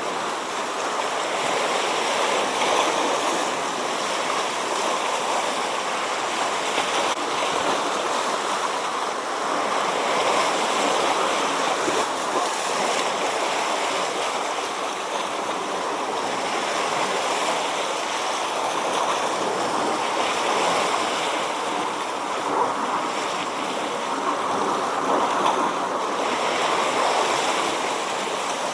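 Sea waves washing onto the shore: a steady rushing hiss that swells and eases slightly.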